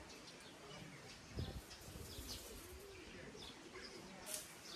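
Birds calling: repeated low, rounded calls and scattered short high chirps, with a dull thump about a second and a half in and a short sharp rustle near the end.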